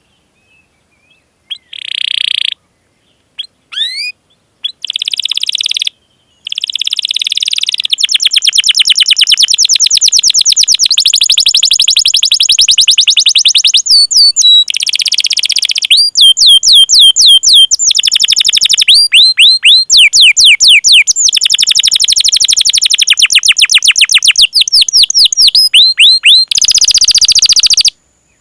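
Domestic canary singing: after a second of silence, short chirps, then long rapid rolls of fast repeated notes interlaced with series of quick up-sweeping 'cuit' call notes. The song breaks off abruptly now and then.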